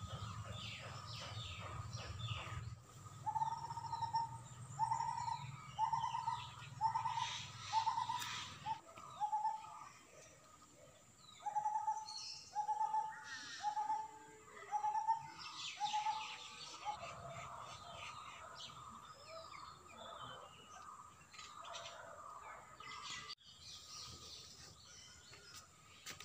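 Birds calling: one bird gives two runs of loud, short whistled notes, about one a second, with a pause between the runs. Fainter chirps from other birds sound throughout.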